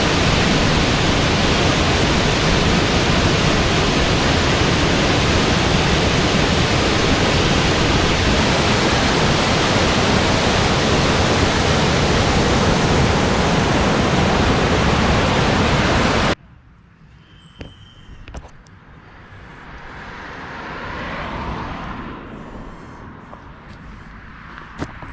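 A waterfall rushing, loud and steady, heard close up. It cuts off abruptly about sixteen seconds in, leaving a much quieter rushing that swells and fades, with a few light clicks near the end.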